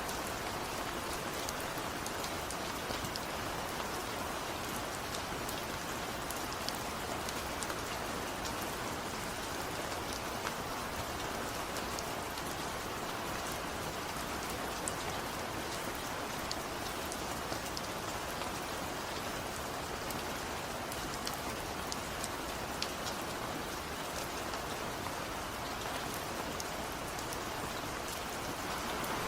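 Steady rain falling, with many small drops pattering and ticking on a hard surface over an even hiss.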